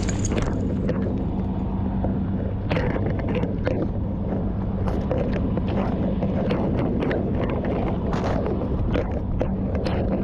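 Steady low hum of a fire engine's diesel engine running, with scattered knocks, clicks and rustles from fire hose being handled and carried.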